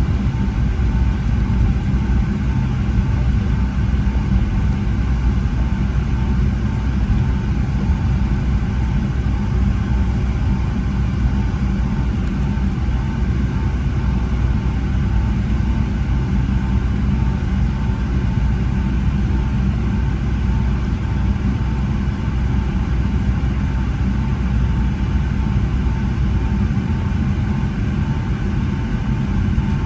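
Steady cabin noise inside a Boeing 757-200: a low rumble from the jet engines running at low power, with a steady whine and a faint evenly pulsing tone on top.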